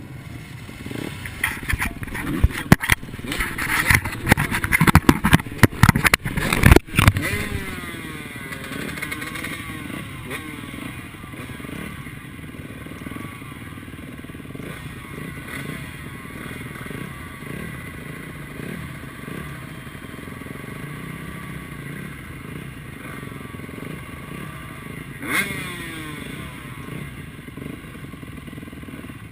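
Motocross bikes' engines, loud and choppy with many sharp clattering knocks for the first seven seconds or so. After that they settle into a steadier engine drone whose pitch keeps rising and falling as the bikes rev and shift. There is one brief louder rise near the end.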